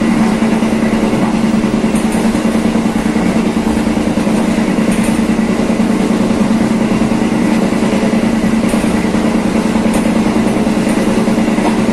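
Passenger train running at a steady speed: a continuous wheel-on-rail rumble with a steady low hum and a few faint, high ticks.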